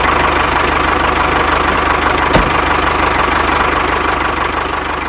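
A motor or engine running steadily with a fast, even pulse, with a single sharp click a little over two seconds in.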